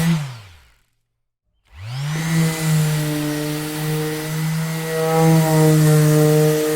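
Electric orbital sander switched off, its motor hum falling in pitch as it winds down to silence; about a second later it starts again, the hum rising to full speed, and it runs steadily with a grinding noise.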